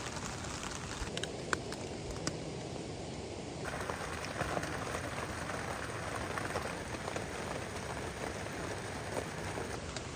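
Steady rain falling on a tarp, an even hiss with scattered sharp taps of single drops.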